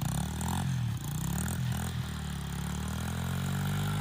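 Pit bike engine revving up and down as the bike is ridden, the pitch rising and falling several times.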